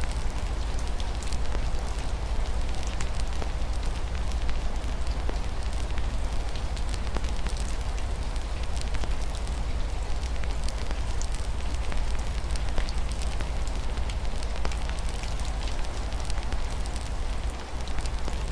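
Fireplace crackling, with many small irregular pops over a steady hiss of rain and a deep, even rumble underneath.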